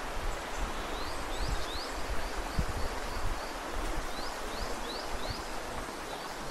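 Steady rush of a forest stream, with a bird calling in short rising chirps in runs of two to four, about a second in and again around four seconds in.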